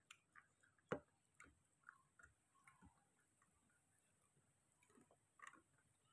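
Faint chewing and small wet mouth sounds of a person eating by hand, with scattered light clicks and one sharper click about a second in.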